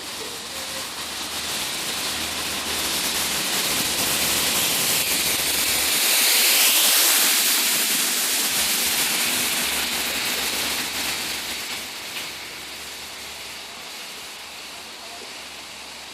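A train passing through at speed: the noise of wheels on rails and rushing air builds, peaks about seven seconds in, then fades away.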